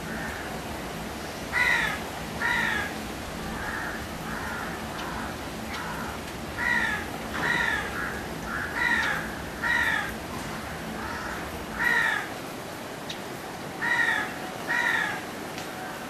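Birds calling: loud, harsh calls, mostly in pairs about a second apart, repeated every few seconds, with softer calls in between.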